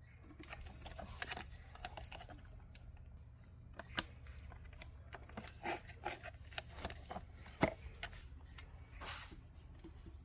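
Scattered clicks and light rattles of plastic dishwasher parts and wiring connectors being handled as the wiring is reconnected during reassembly. Sharper clicks come about a second in, around four seconds and past seven seconds, with a brief rustle near the end, over a faint steady low hum.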